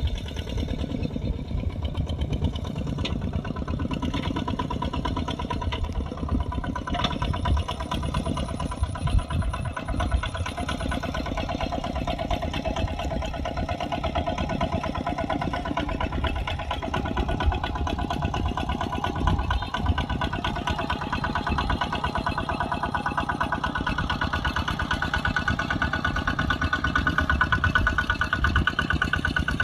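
Kubota RT140 single-cylinder diesel engine of a working tractor, running steadily with an even low chugging, getting a little louder in the last few seconds.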